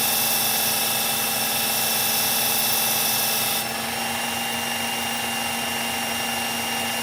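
Electric belt knife sharpener running steadily, its abrasive belt grinding the S30V steel blade of a knife to raise a burr, with a constant motor whine and a grinding hiss. A little past halfway, the high hiss suddenly drops a little while the motor keeps running.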